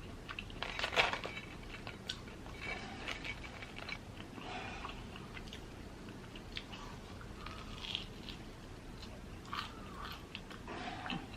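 Biting into and chewing a crunchy battered Korean mozzarella corn dog: a loud crunching bite about a second in, then chewing with scattered small crunches.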